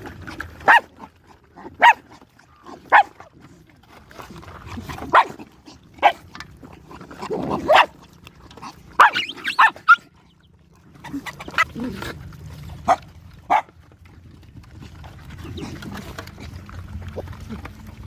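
A dog giving short, sharp barks, about a dozen spaced irregularly, over a low steady hum.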